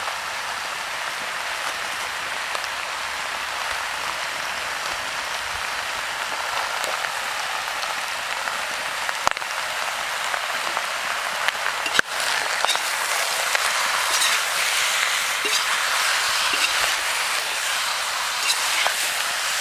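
Country chicken curry cooking in a pot, a steady sizzling hiss with scattered crackles and pops. It grows somewhat louder after a sharp click about twelve seconds in.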